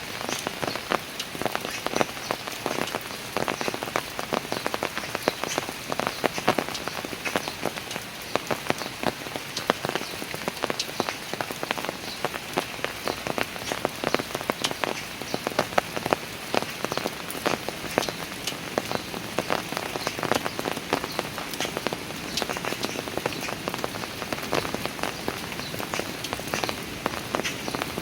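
Steady rain falling on park stairs, with a dense patter of sharp individual drop impacts over a constant wash of rain noise.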